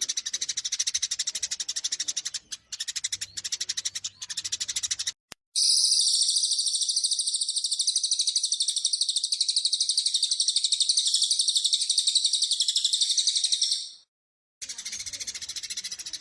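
Rapid, dense chattering of Eurasian tree sparrows, the squabbling calls of fighting sparrows used as a lure recording. About five seconds in it breaks off briefly, and a different bird's high, very fast trill runs for about eight seconds. The trill cuts off suddenly, and the sparrow chatter resumes near the end.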